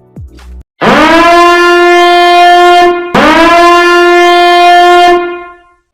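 A ship's air horn sounds two long blasts of about two seconds each. Each blast slides up in pitch as it starts, then holds one steady tone. The second blast fades out at the end.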